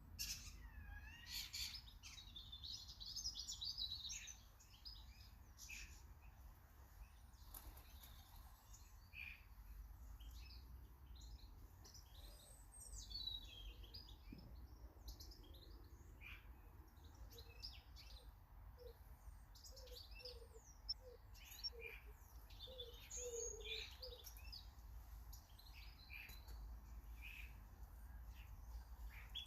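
Faint chorus of small garden birds chirping and twittering. A run of low, evenly repeated notes comes in about two thirds of the way through, over a steady low background rumble.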